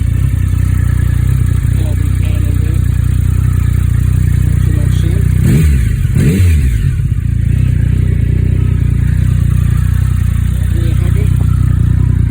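Triumph Sprint GT 1050's three-cylinder engine idling steadily, with the throttle blipped twice in quick succession about halfway through.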